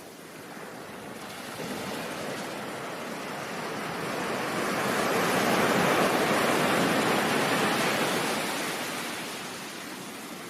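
Ocean surf: one wave rises in a rushing swell, peaks about midway, and washes back down.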